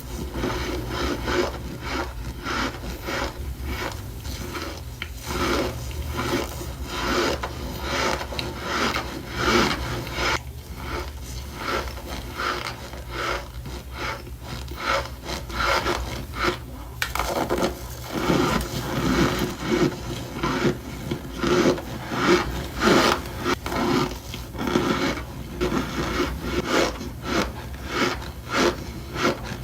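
Chunks of cornstarch being crushed, a steady run of short, scrunchy crunches, a few each second.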